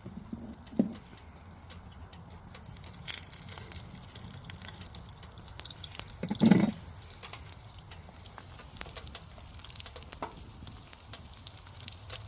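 Wood pellets burning in a camping wood stove, crackling and popping irregularly. A dull knock comes about halfway through.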